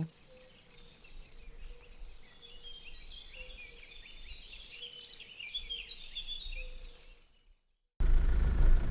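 Outdoor ambience of insects, like crickets, trilling in a steady high pulsing tone, with small chirps and a low rumble beneath. It fades out, and after a brief silence a loud low rumble cuts in abruptly near the end.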